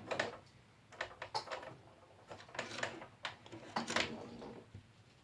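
Irregular light clicks, taps and scrapes of a plastic 1/18 scale model helicopter being handled and turned over.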